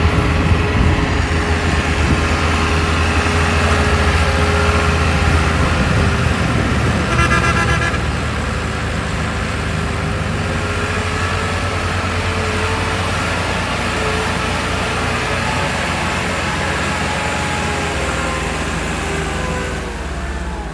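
Tractor diesel engine running steadily, with a horn sounding briefly about seven seconds in.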